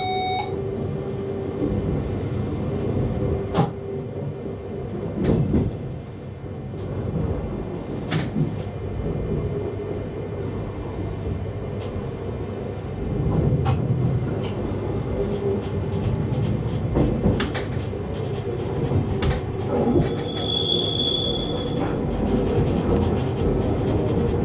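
Electric multiple unit running, heard inside the driver's cab: a steady hum of running noise with sharp knocks from the track every few seconds, and a short high beep about twenty seconds in.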